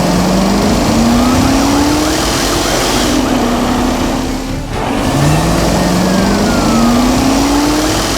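Car engine sound effect accelerating, its pitch climbing in a long rise, holding, dropping briefly near the middle, then climbing again.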